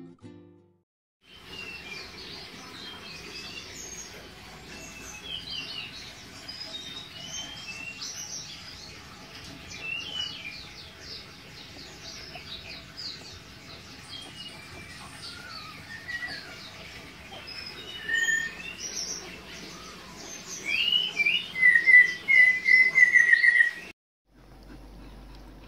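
Songbirds chirping and singing, many short overlapping calls, with a loud run of quickly repeated notes near the end before the birdsong cuts off suddenly.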